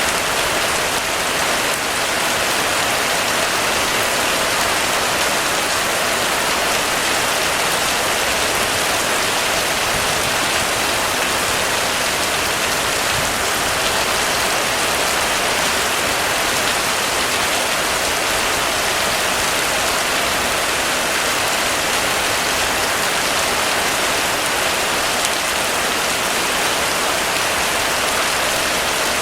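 Heavy rain falling steadily, an even unbroken hiss of many drops with no thunder.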